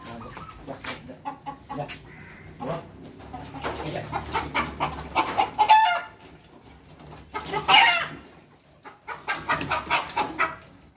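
A flock of domestic poultry clucking and calling in a string of short notes, with a rapid rattling call about six seconds in and a loud, harsh squawk about two seconds later.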